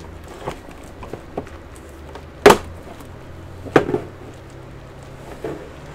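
A few separate knocks and clunks from hard objects being handled, the loudest about two and a half seconds in and another just before four seconds, over a steady low hum.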